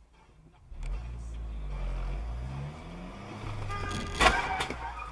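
A car's engine and road noise rise as the vehicle speeds up, and its pitch climbs. About four seconds in comes a sudden loud crash with a brief ringing tail, typical of a vehicle collision.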